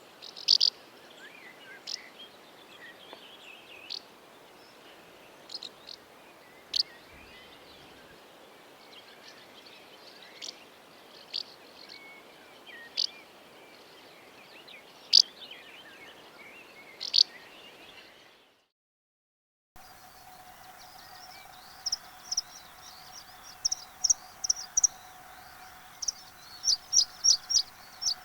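Wild bird calls from two separate recordings. First comes a series of short, sharp, high call notes, one every second or two. After a brief silence, a second recording brings quick runs of high notes over a steady hum-like tone.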